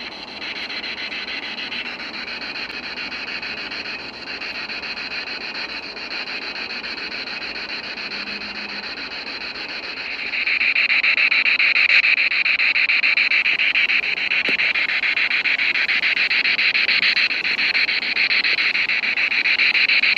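Crickets trilling steadily in a continuous high-pitched chorus, which grows clearly louder about halfway through.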